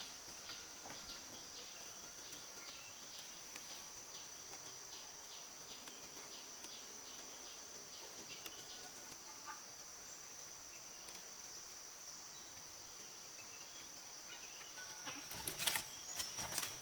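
Steady high-pitched insect drone, with a few faint ticks along the way and a cluster of sharp, louder clicks near the end.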